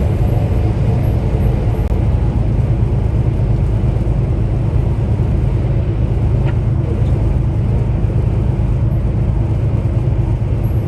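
Tractor-trailer's diesel engine and road noise, a steady low drone while cruising at highway speed.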